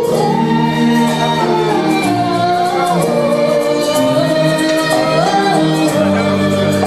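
A woman singing a song with instrumental accompaniment, her voice holding and sliding between long notes.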